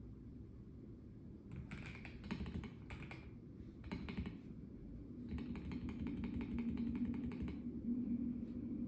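Typing on a Melgeek Mojo84 plastic-case mechanical keyboard: short bursts of keystrokes starting about a second and a half in, a longer fast run in the second half, then a single keypress near the end. A low steady hum runs underneath.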